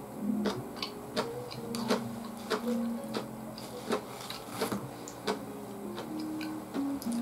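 Close-miked chewing of soba noodles: soft, wet mouth clicks in an even rhythm, about one every 0.7 seconds.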